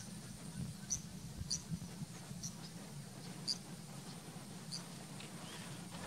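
Short, high-pitched bird chirps, about six of them spaced irregularly, over a steady low background hum.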